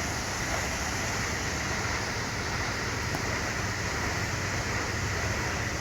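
Steady noise of a ferry docking heard from its deck: a constant low engine drone under an even rush of wind and churning water.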